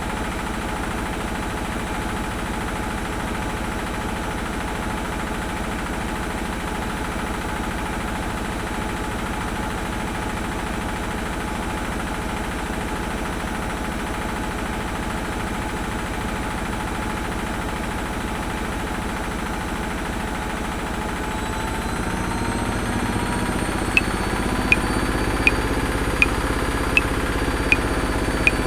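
Washing machine running with a steady churning hum. About 22 seconds in it gets louder and a motor whine creeps upward in pitch as the drum speeds up. From about 24 seconds in, metronome clicks come in at 80 beats a minute, one every three-quarters of a second, seven in all.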